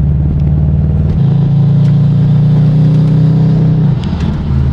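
Subaru WRX's turbocharged boxer engine running under load with an uneven misfire. Its note changes about a second in and drops off near the end, like a gear change.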